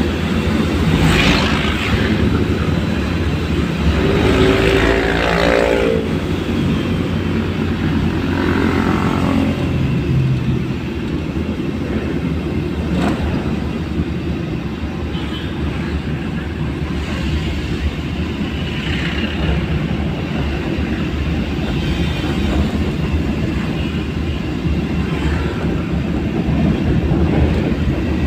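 Road traffic: a steady vehicle rumble with vehicles passing close by, one giving a pitched sound that falls as it goes past about four to six seconds in.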